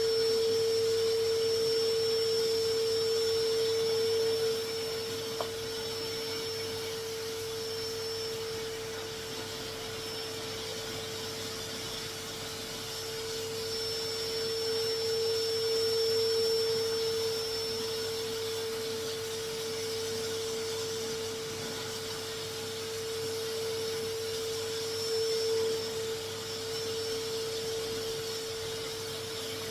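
Vacuum cleaner motor running with a steady whine over a hiss of moving air, its loudness slowly rising and falling as it is worked over a carpet.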